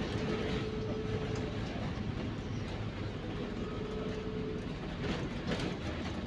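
MAZ-203 city bus under way, heard from inside the passenger cabin: steady engine and road rumble with a faint whine that comes in twice, and a brief rattle near the end.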